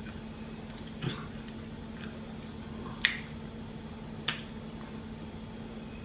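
Mouth sounds of someone eating: three short, sharp smacks spread over a few seconds, over a steady low hum.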